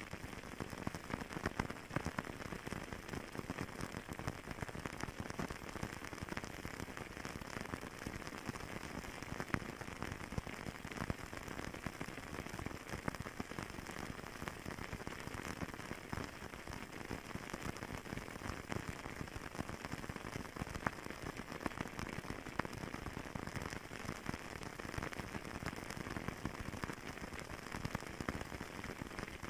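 Fireplace fire crackling steadily, a dense run of small pops and snaps over a soft hiss.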